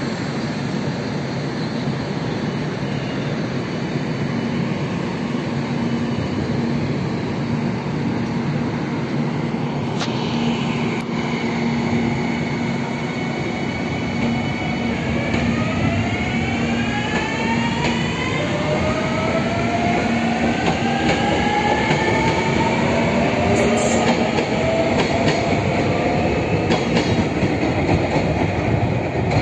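Anpanman-painted limited express train pulling out of a station. A steady running hum gives way, from about halfway, to several whines rising together in pitch as it gathers speed, over the rumble of wheels on the rails.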